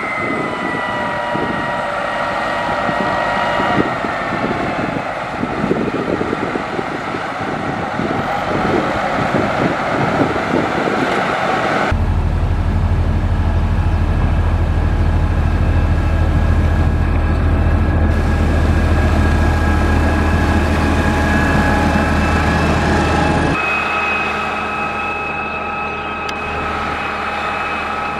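Heavy diesel construction machinery, plausibly a motor grader, running under load with steady whining tones above the engine. The sound changes abruptly about twelve seconds in, when a deep low drone comes in, and again near twenty-four seconds in.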